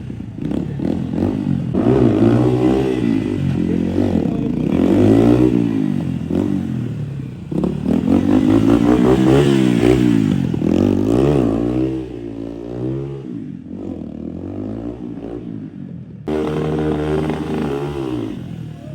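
Motorcycle engine revved up and down over and over, its pitch rising and falling many times, during a stunt rider's warm-up. It drops quieter about two-thirds of the way through, then settles into a steadier run near the end.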